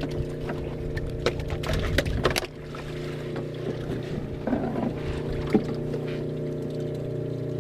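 Fishing boat's engine running with a steady hum. Scattered clicks and knocks, with a low rumble that cuts off about two and a half seconds in.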